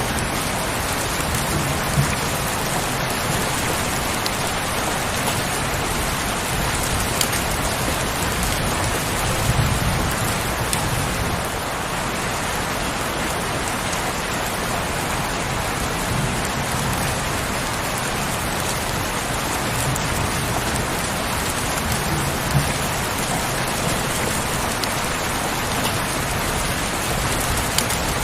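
Heavy rain falling steadily as a dense, even hiss, with a few sharper drop ticks here and there.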